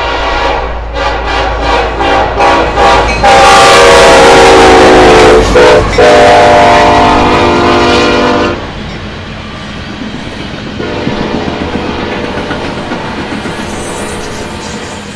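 Nathan Airchime K5LLE five-chime horn on an NS SD40E locomotive: a series of short toots, then two long loud blasts, the chord dropping in pitch with the Doppler effect as the locomotive passes. After the horn cuts off, the rumble and clatter of the loaded coal train rolling by.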